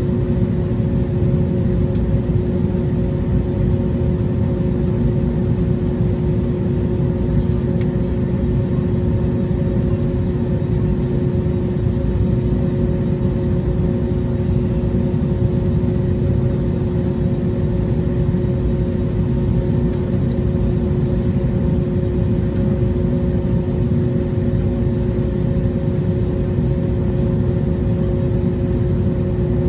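Airbus A321neo airliner, its engines and airflow making a steady, loud rumble with two even droning hums over it, holding unchanged throughout.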